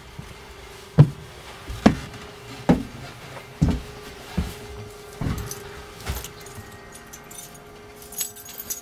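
Footsteps: seven heavy steps, a little under a second apart. Near the end, a bunch of keys jingles.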